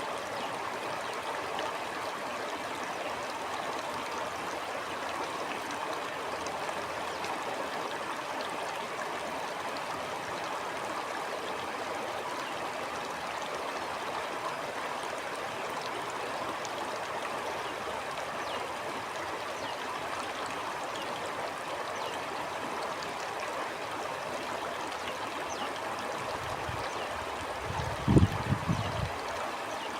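Stream flowing steadily over rocks, an even rushing and gurgling of water. A couple of seconds before the end comes a brief cluster of low thumps, louder than the water.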